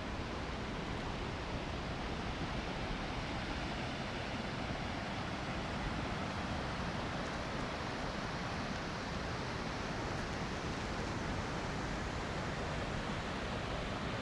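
Steady rushing of surf, with some wind.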